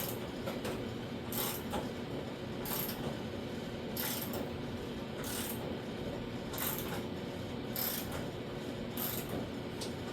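Ratchet-handled hemming tool being worked along the edge of a steel door skin, its ratchet clicking about once a second as the handle is pumped to fold the edge over.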